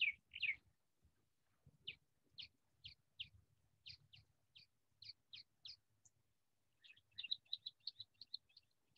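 A songbird chirping: a run of short, downslurred chirps about two a second, then a quicker string of chirps about seven seconds in.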